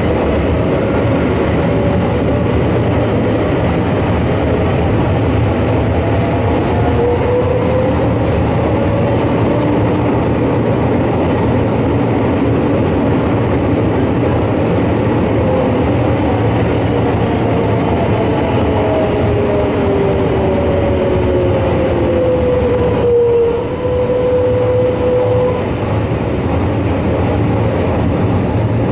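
Kobe Electric Railway electric train running through a tunnel, heard inside the carriage: a steady rumble of wheels on rail with a motor whine. The whine rises in pitch about seven seconds in, then falls steadily from about sixteen seconds as the train slows into a station.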